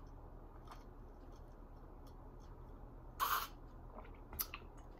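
A person drinking water, mostly quiet, with one short louder sound about three seconds in and a light click a second later.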